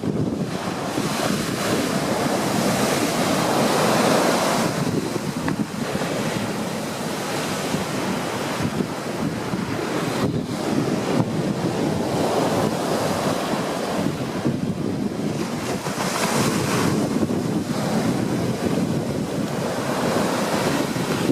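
Big ocean waves breaking and washing up on the beach, the surf swelling loudest a few seconds in and again near the end, with wind buffeting the microphone.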